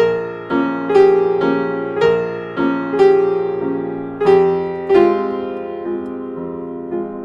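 Background piano music: a soft melody of struck notes, each ringing and fading, about one or two a second.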